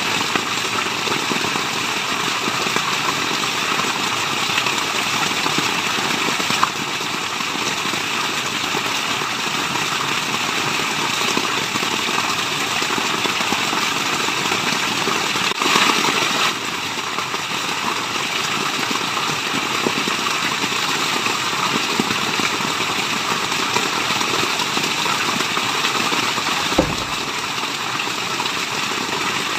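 Waterfall's steady rush of falling water, an even, unbroken noise, swelling briefly about halfway through, with a single soft low thump near the end.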